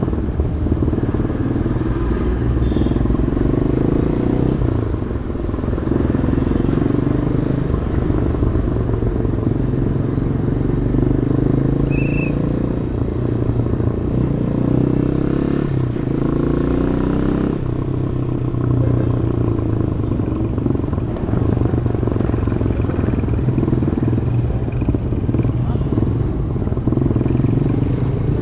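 Demak DTM 150 motorcycle engine running through its stock exhaust while riding in traffic, the revs rising and falling with the throttle, with a rising rev run about halfway through.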